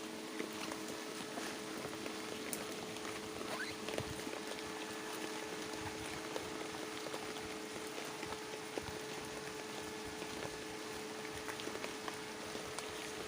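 Rain pattering and dripping, many small scattered ticks over a steady low hum.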